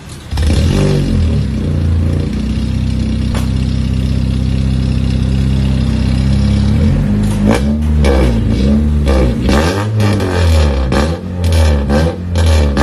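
Honda Civic FD1's 1.8-litre four-cylinder engine breathing through an aftermarket Alpino Elgarage muffler. It starts up just after the beginning and idles steadily, then from about halfway it is revved in a string of quick throttle blips, roughly one a second.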